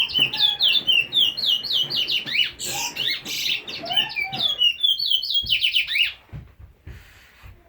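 Pet bird calling in a fast, dense run of high chirps, whistles and squawks that stops abruptly about six seconds in. A few soft knocks follow.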